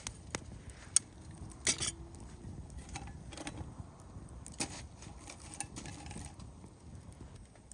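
Metal camp gear being handled: a few sharp clinks and knocks, the loudest about a second in, and one just under two seconds in that rings briefly.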